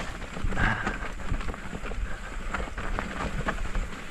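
Mountain bike rolling down a wet dirt trail: the frame and parts rattle and knock over bumps, with tyre noise and wind rushing on the camera microphone.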